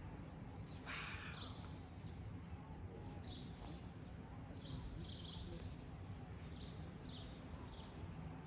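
Faint small birds chirping outdoors, a series of short high chirps repeated every half second to a second over a low steady background hiss, with a brief rustle about a second in.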